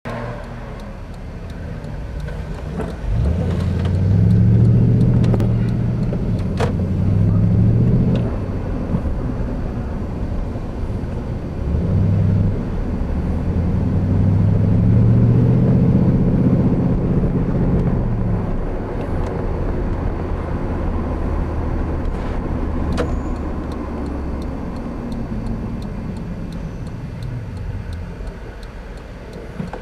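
Lexus LS400's 1UZ-FE V8 running through 2.25-inch straight-through pipes, heard from inside the moving car. The engine note climbs and grows louder twice, about three seconds in and again around twelve seconds, then settles into a steady cruising drone that eases off near the end.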